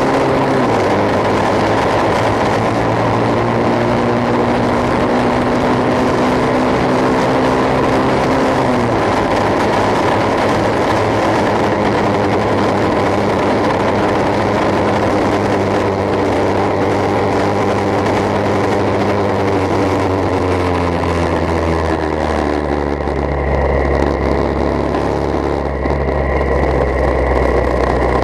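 Motorcycle engine running through a bamboo exhaust pipe, its pitch settling at a new speed several times.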